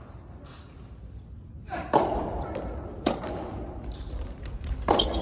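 A soft tennis rally: the rubber ball is struck or bounces three times, about 2, 3 and 5 seconds in, each hit ringing briefly, with short high squeaks between the hits.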